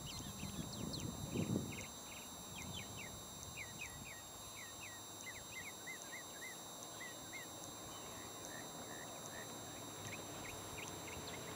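Small birds chirping in quick short notes again and again, with a brief low rumble about a second and a half in.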